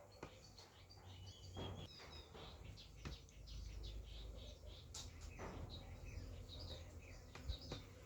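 Faint birdsong: many short, high chirps from several birds, with a low background rumble and a couple of sharp knocks about three and five seconds in.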